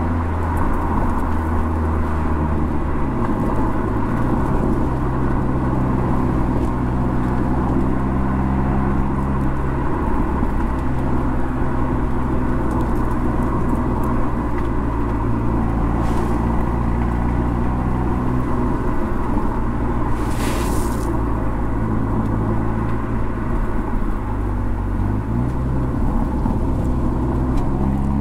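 Mercedes CLA45 AMG's turbocharged four-cylinder engine and exhaust running under steady load at cruising revs, over a low road rumble. Its pitch steps up a few seconds in, dips near the end and then rises again.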